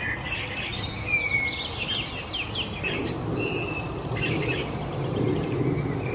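Several songbirds singing and chirping at once, quick overlapping trills and whistles, over a steady low background rush.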